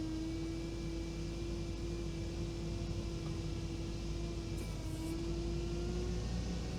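Veter all-terrain vehicle's engine running at a steady speed with an even whine and low rumble.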